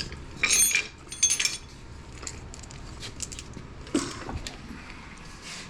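Metal parts and hand tools clinking and clattering: two sharp ringing clinks in the first second and a half, then a few light ticks and a duller knock about four seconds in.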